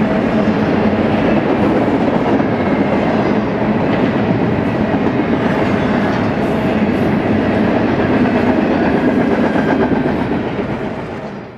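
Double-stack intermodal freight train cars rolling past: a steady, loud noise of steel wheels on the rails, fading out near the end.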